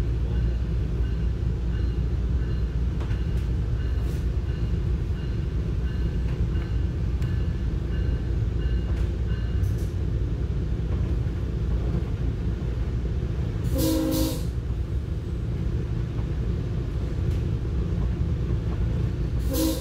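EXO commuter train running along the track, heard from inside the passenger coach as a steady low rumble. About two-thirds of the way through the locomotive's horn gives a short blast, and a second blast starts right at the end.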